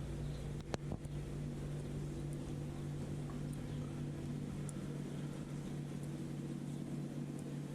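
A steady low mechanical hum, like a motor running, with one sharp click about three quarters of a second in.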